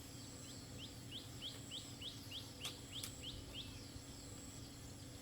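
A bird calling a quick run of short rising chirps, about three a second, stopping after some three seconds. Two sharp clicks fall in the middle of the run, over a faint steady background hum.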